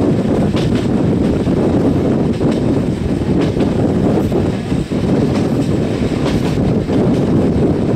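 Passenger train running along the track, heard from an open window of one of its coaches: a steady rumble of wheels on rail with a few faint clicks, and wind buffeting the microphone.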